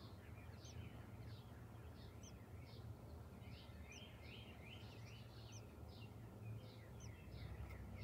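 Small birds chirping faintly: a rapid run of short, high, falling chirps, two or three a second, with a sharper, higher note about every second and a half. A low steady hum lies under them.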